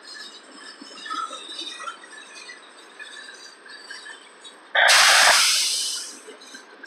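Freight train tank cars rolling past on the rails with a steady rolling noise. About five seconds in comes a sudden loud hiss that fades away within about a second.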